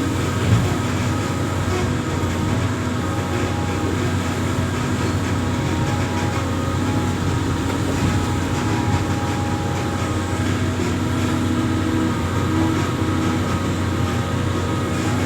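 Amphibious excavator's diesel engine running steadily under work, a continuous heavy hum with a few held tones that come and go.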